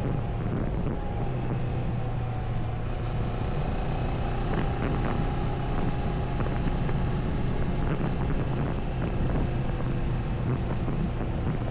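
Moto Morini 6½ Scrambler's parallel-twin engine running at a steady cruise, with wind rushing over the microphone.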